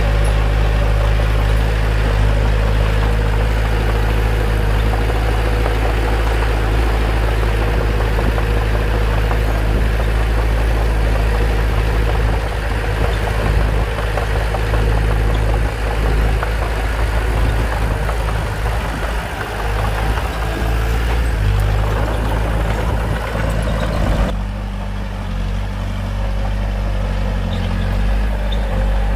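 Bulldozer's diesel engine running steadily with a deep low rumble while the machine works. About 24 seconds in, the higher noise falls away and the engine eases off, then it builds up again near the end.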